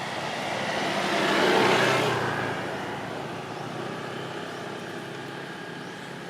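A vehicle passing by: its noise swells to a peak a second or two in, then fades away.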